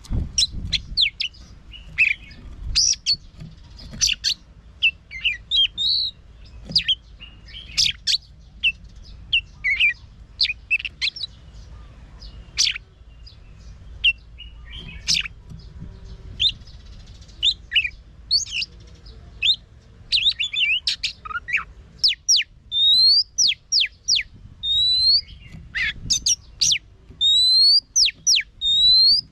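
Oriental magpie-robin singing: a varied run of short whistled and chirping notes, turning in the last several seconds into a repeated rising slurred whistle.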